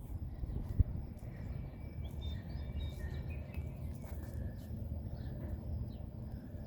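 Outdoor ambience: a low, fluttering rumble of wind on the microphone, with faint high bird chirps and a single sharp click about a second in.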